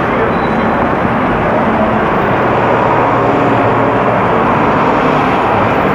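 Loud, steady vehicle traffic noise, a constant rumble and hiss without breaks.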